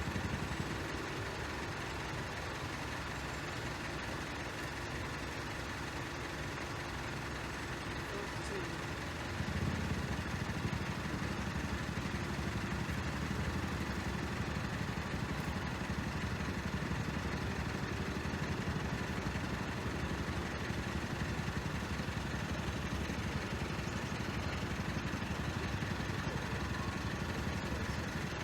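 Steady engine idling, with a deeper, louder engine sound joining about nine seconds in and running on evenly.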